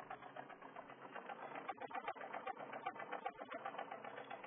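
Truck engine idling roughly with a fast, even knocking while the vehicle is stopped and shaking hard: an engine fault the owner says is not supposed to happen.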